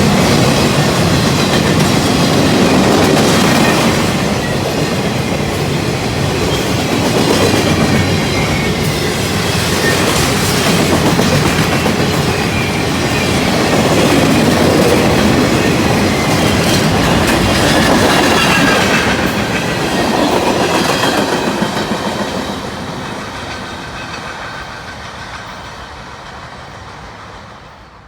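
Welded rail train, a string of railcars carrying long welded rail, rolling past at speed with wheels clattering on the track. The sound fades away over the last several seconds as the train moves off.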